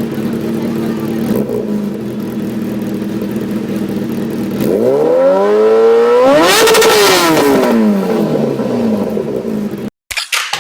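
A steady engine drone, then a superbike accelerating past, its engine note climbing to a loud peak and dropping away as it goes by. The sound cuts off abruptly near the end.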